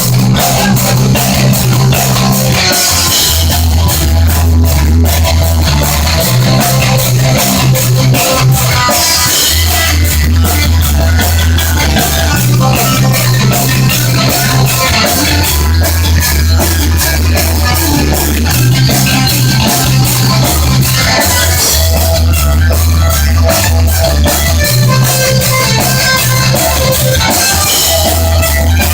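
Heavy metal band playing live: electric guitar, bass guitar and a drum kit with steady, driving cymbal strokes over a bass riff that repeats every few seconds.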